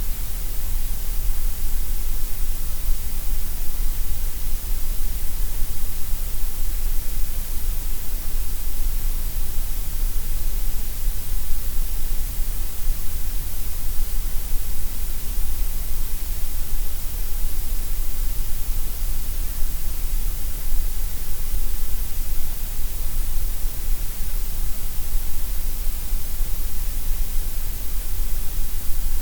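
Steady gray noise: an even, unchanging synthetic hiss, heavier in the deep lows and the highs than in the middle.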